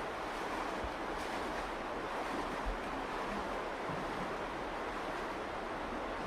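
Virgin River water rushing steadily.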